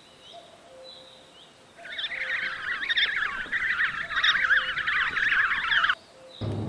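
A flock of small birds chattering and warbling together in a dense, fast-changing chorus. It starts about two seconds in and cuts off suddenly near the end, with a few faint single chirps before it.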